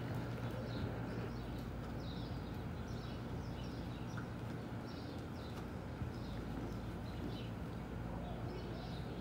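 Small birds chirping, many short quick calls through the whole stretch, over a steady low hum.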